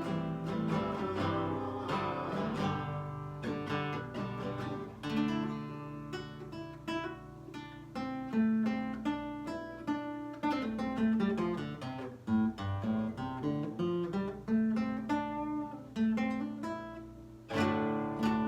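Nylon-string acoustic guitar, a Lyle, played solo: picked melody notes over bass notes, with full strummed chords about five seconds in and again near the end.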